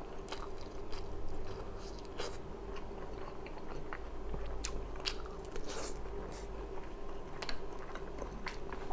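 A person chewing and biting food close to the microphone, with scattered short wet mouth clicks. A faint steady hum runs underneath.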